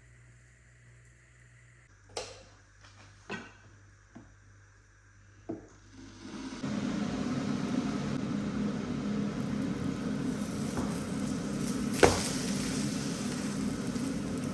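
Kitchen work sounds: a few separate knocks of dishes or utensils, then a loud, steady whirring noise with one sharp click about twelve seconds in, stopping abruptly at the end.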